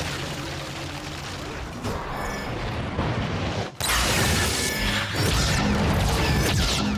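Film battle sound effects over background score: crashes, impacts and whooshes, with a sudden loud burst about four seconds in, right after a short drop in level.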